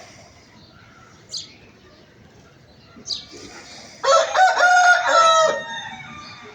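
Rooster crowing once, about four seconds in, a single crow of about a second and a half that is the loudest sound, after two short high chirps.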